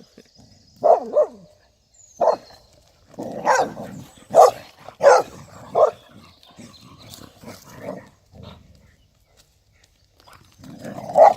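Dogs barking at play: a run of short, sharp barks over the first six seconds, softer yips and snuffling after that, a pause, then another loud bark near the end.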